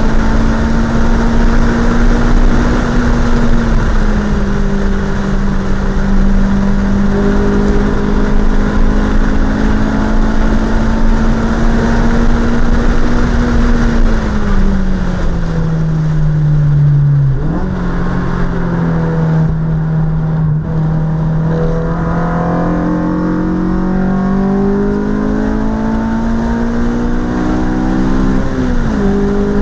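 A 2006 Honda Civic Si's four-cylinder engine, heard inside the cabin at speed on a track lap, with road and wind noise. The engine note holds high and steady, falls as the car slows about halfway, steps up suddenly, then climbs again under acceleration, with a sharp drop in pitch near the end.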